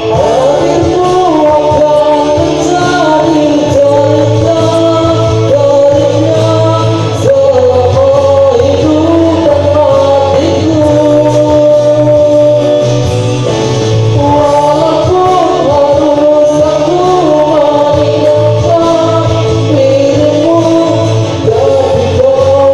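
Singing with musical accompaniment, a sung melody over a steady backing.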